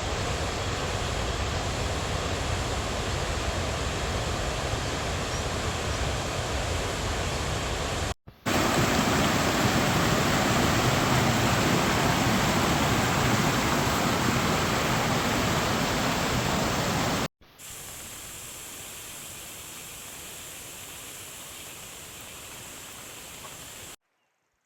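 Steady rushing noise in three stretches split by abrupt cuts about 8 and 17 seconds in. The last stretch is quieter, and the sound cuts to near silence just before the end.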